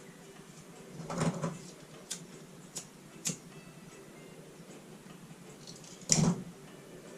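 Parts and tools handled on a workbench: two clattering knocks, one about a second in and one near the end, with three short sharp clicks between them.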